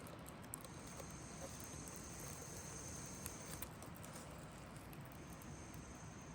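Insects trilling in a high, thin, steady tone that runs for about three seconds, breaks off, and starts again about five seconds in, over a low steady background rumble with a few faint ticks.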